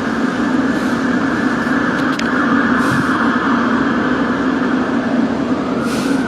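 London Underground District line S7 Stock train standing at the platform with its equipment running as a loud, steady hum. Short hisses of air sound about a second in, around three seconds, and near the end.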